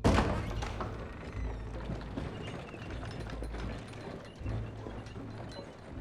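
Film soundtrack: a sudden loud hit, then busy mechanical clicking and rattling over a steady low rumble and soft music.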